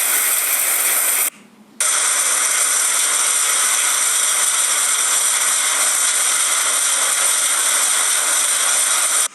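Steady rushing hiss of heavy rain and strong wind, broken by a brief drop-out about a second and a half in.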